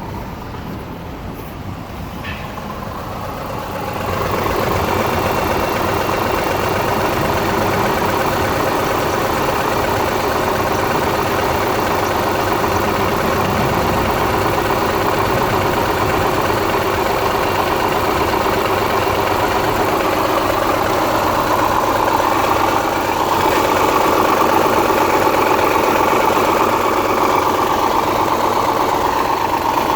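2002 Subaru Legacy boxer engine idling steadily with a knock that the owner cannot place as rod knock or piston slap. It grows louder about four seconds in and holds steady after that.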